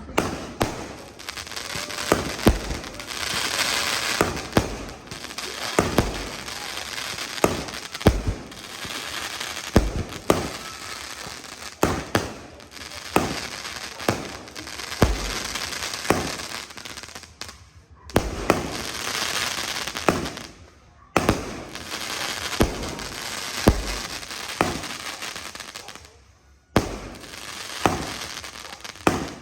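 A 16-shot consumer fireworks cake firing shot after shot, with sharp bangs about one a second and a rushing hiss between some of them. There is a short lull near the end.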